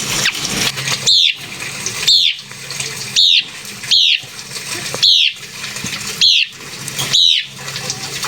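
White-browed laughingthrush calling: a series of seven sharp, high notes, each sweeping quickly downward in pitch, repeated about once a second over a steady background hiss.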